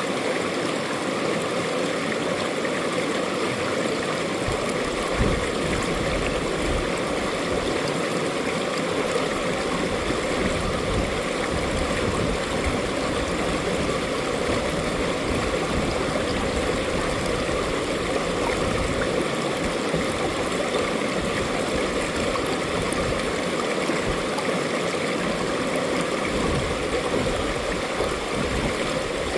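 Mountain valley stream flowing steadily, an even rushing and gurgling of water.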